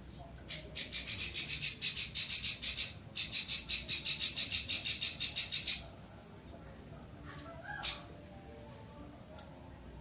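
A 'klik klik' songbird singing full 'besetan' song: two long runs of rapid, sharp, high notes at about five or six a second, with a brief break about three seconds in. A single short call follows about eight seconds in.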